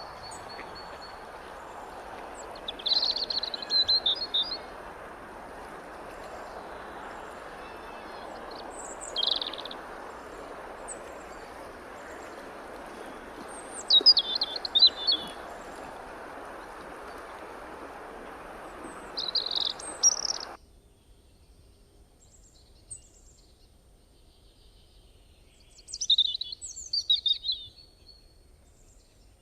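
A bird calling in short, high chirping phrases, about five times, some notes sliding downward. A steady hiss of background noise lies under the first two-thirds and cuts off suddenly, leaving the later calls against quiet.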